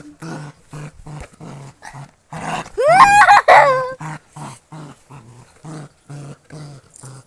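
A puppy growling in short, rapid bursts, about three a second, while holding on to a ball it won't give up. About three seconds in comes one loud, rising cry.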